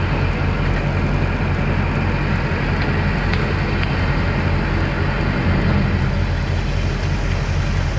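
Steady engine and road noise of a Ford F-450 truck driving at an even pace, a low hum with no change in speed.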